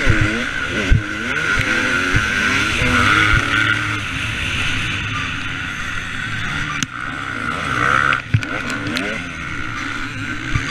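A two-stroke motocross bike engine, the KTM 250 SX, revving hard up and down again and again as it is ridden on the track. A few sharp knocks come through, near the start, about a second in, and once late on.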